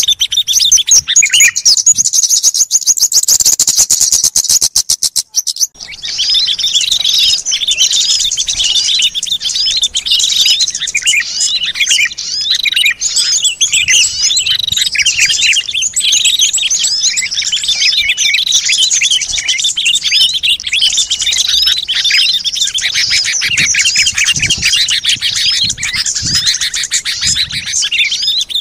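A lure recording of many small songbirds chirping at once, used to call wild birds in. It opens with a fast, even rattling trill that cuts off about five seconds in. After that comes a dense, busy chorus of high, overlapping chirps and twitters.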